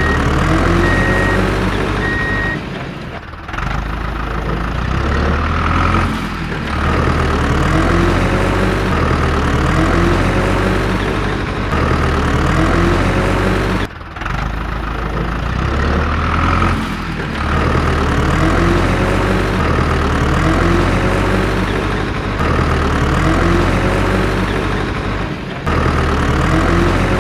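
Heavy truck engine running, its pitch rising and falling over and over about every two seconds. A few short reversing beeps sound at the start.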